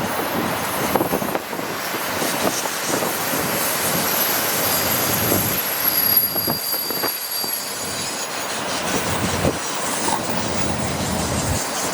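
Freight train of empty auto-rack cars rolling past, steel wheels knocking over the rails, with a thin high-pitched wheel squeal that comes in about a second in and again near the end.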